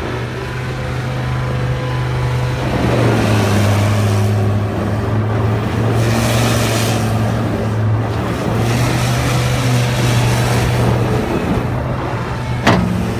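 John Deere 328D skid steer loader's diesel engine running at a steady pitch, getting louder about three seconds in and holding there.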